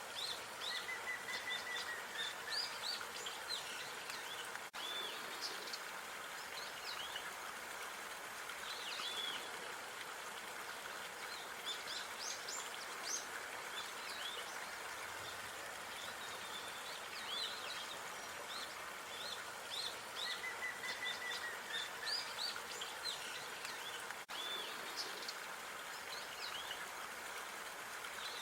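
Small songbirds chirping and twittering in short, high calls, with a brief trill twice, over a steady outdoor background hiss.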